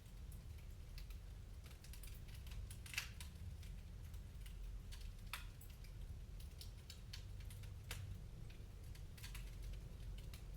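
Wood fire crackling in a fireplace: irregular sharp pops and snaps, one loud snap about 3 seconds in, over a low steady rumble.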